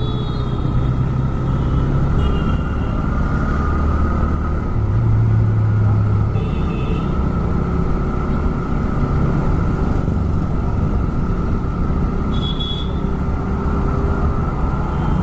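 TVS Raider 125's single-cylinder engine and exhaust running steadily under way, with a constant low rumble of riding noise. Three brief high beeps come through, at about two, six and twelve seconds in.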